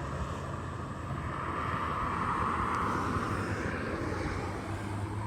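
Outdoor background noise: a steady rush of wind with a low hum beneath it, swelling about two seconds in and easing off again.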